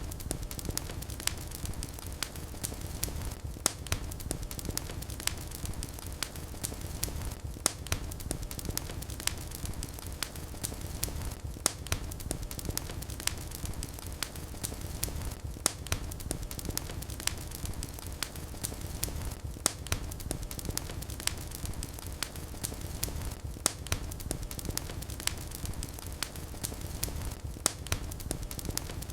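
Wood fire crackling in a fireplace: a steady low rumble of the flames with frequent irregular sharp pops and snaps. The same stretch of crackling repeats about every four seconds, a looped recording.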